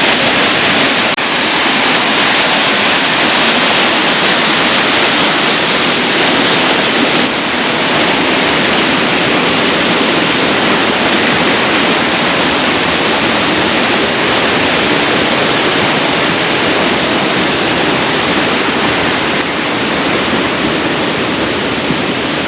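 Steady, loud rush of falling water from Wagner Falls, a waterfall about 20 feet high. The level steps down slightly a few times.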